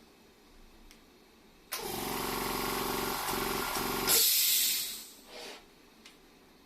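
Electric air compressor motor switched on briefly, humming for about two and a half seconds, then a loud hiss of air about four seconds in that fades within a second or so. The owner takes the motor itself to be faulty, unable to turn.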